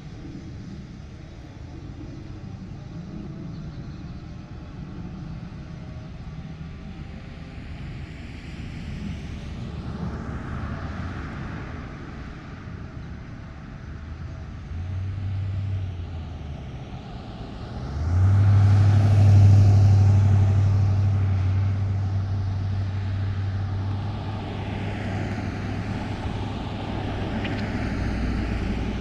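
Motor vehicles passing on a street, coming and going one after another. The loudest passes about two-thirds of the way through, with a low engine drone that starts suddenly and slowly fades.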